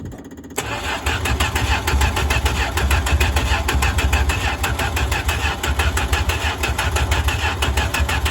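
1987 Dodge Dakota derby truck's engine cranking briefly, catching about half a second in, then running with a fast, even firing beat.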